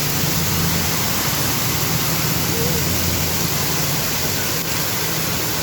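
Steady hiss of rain and running water, with a low vehicle engine hum underneath that fades after about three and a half seconds.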